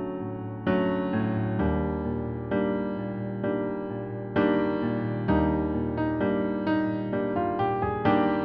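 Electric piano playing held chords as accompaniment for a vocal exercise, striking a new chord about once a second and faster near the end.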